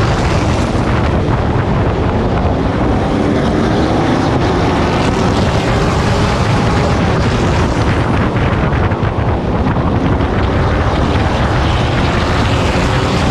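Pro Truck race truck's engine running hard at racing speed, heard from on board, its pitch wavering slightly as the revs rise and fall, with wind buffeting the microphone.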